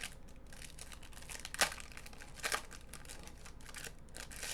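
A Topps Chrome baseball card pack's wrapper being torn open and crinkled in the hands, with two louder rips near the middle.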